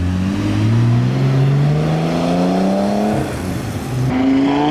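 A car engine accelerating, its note rising steadily for about three seconds, dropping at a gear change, then rising again as it pulls in the next gear.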